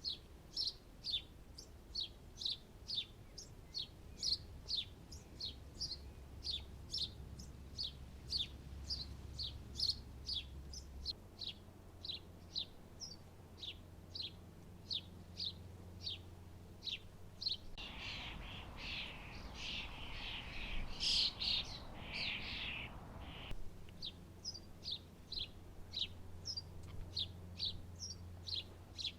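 Small garden birds chirping: a long run of short, high chirps, about two or three a second. The chirping gets denser and louder for several seconds past the middle.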